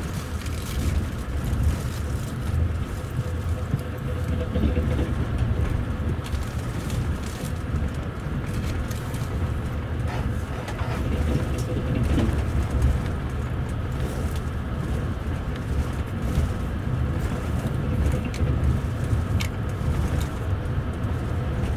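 Running noise of a double-deck TVZ passenger carriage heard from its upper deck while the train is moving: a steady low rumble of wheels on rail, with a faint steady hum and a few light clicks.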